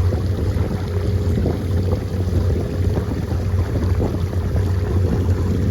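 Boat engine running steadily, a low constant hum, with wind rushing over the microphone.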